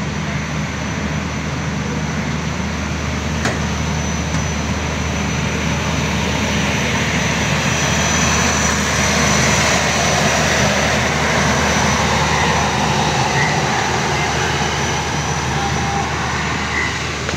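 Pakistan Railways passenger train pulling out slowly, its coaches rolling past with a steady rumble of wheels on the rails and a low hum. The sound swells about halfway through as the power van, which carries the train's diesel generators, goes by, then eases as the end of the train passes.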